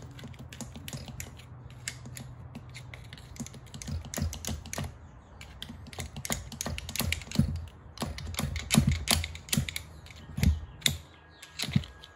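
Irregular metallic clicks and clinks of a flathead screwdriver prying and wiggling the shift lever off a Kawasaki KX60 dirt bike engine, louder and more frequent from about four seconds in.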